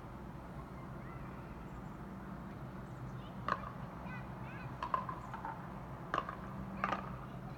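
Distant helicopter droning steadily, with short, sharp bird calls breaking in about five times in the second half.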